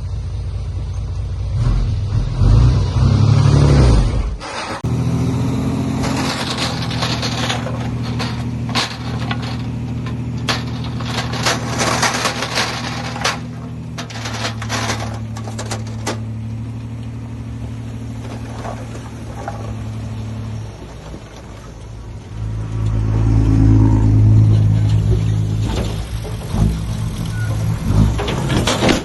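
Diesel engine of heavy earthmoving machinery running steadily, with a stretch of clattering knocks partway through and the engine pulling louder near the end.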